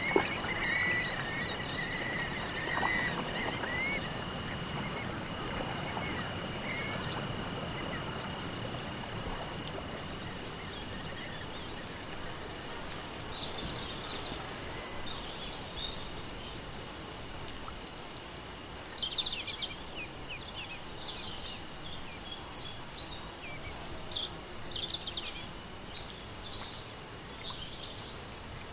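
Insects calling: a high chirp pulsing steadily about twice a second that stops about halfway through, over a constant high-pitched buzz. Birds chirp more and more through the second half.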